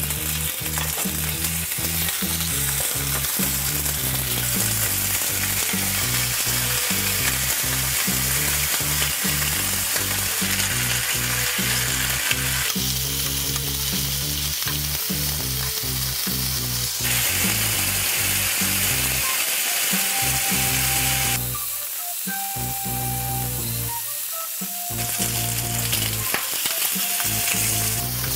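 Smoked chicken leg quarters sizzling steadily in hot oil in a nonstick frying pan, with low background music underneath. The sizzle shifts abruptly in level a few times.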